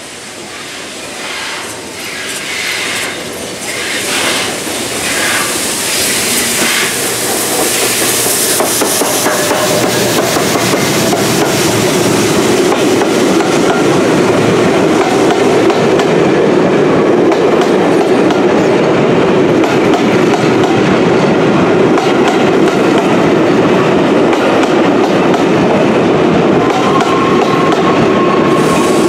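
A train approaching and passing close by, getting louder over the first ten seconds or so, then running steadily with wheels on the rails clattering over the joints.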